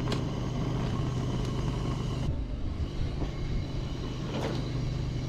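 Yamaha portable generator running steadily with an even engine hum. The higher part of the sound drops away abruptly a little over two seconds in.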